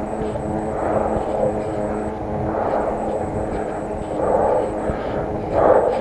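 Wind rushing over a chest-mounted camera's microphone while cycling, a steady drone with louder swells every second or so.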